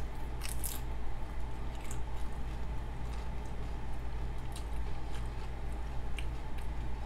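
A person chewing a mouthful of tortilla chip with green sauce close to the microphone. There are a few crisp crunches in the first second or so, then softer, wetter chewing with the odd faint crunch.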